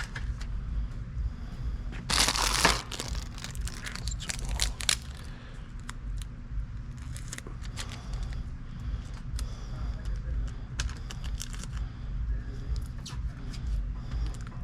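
Packaging being handled: a burst of tearing or crinkling about two seconds in, then scattered light clicks and knocks, over a steady low hum.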